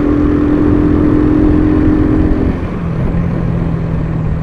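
Motorcycle engine running at a steady speed under wind rush, its pitch dropping to a lower steady note a little past halfway through.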